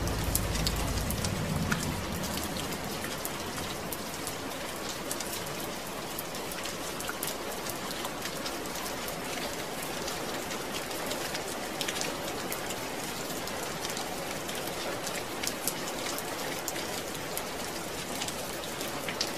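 Steady rain falling, an even hiss with many separate drop ticks on a surface. A low rumble underneath fades out in the first two seconds.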